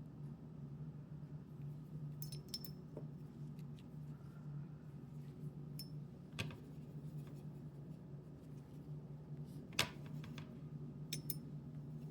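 Scattered light clicks and taps of watercolour painting tools at work, the loudest about ten seconds in, over a faint steady low hum.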